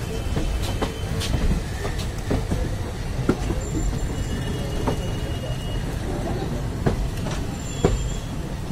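Passenger train rolling very slowly into a station under a 10 km/h speed restriction: a steady low rumble with irregular knocks and clicks from the wheels and coaches.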